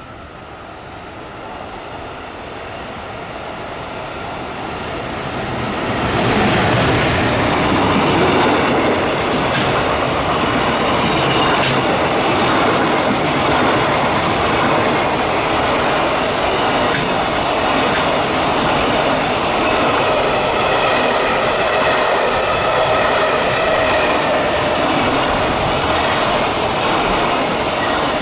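EF210 electric locomotive approaching and passing with a long container freight train. The sound builds over the first six seconds, then holds as a loud, steady rumble of wagons rolling by, with wheels clicking over the rail joints and a few steady ringing tones from the wheels. It starts to fall away right at the end as the last wagon goes by.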